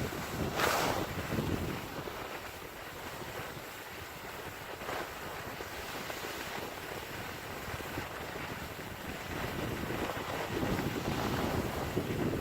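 Wind rushing over the microphone during a downhill ski run on snow, a steady noise with a brief gust about half a second in and a louder swell near the end.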